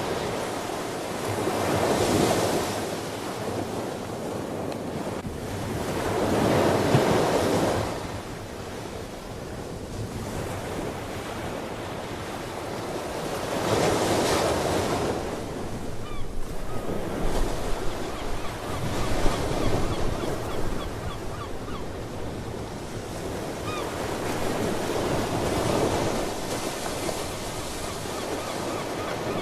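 Ocean waves breaking and washing ashore, the surf swelling roughly every five to seven seconds, with faint seabird calls in the second half.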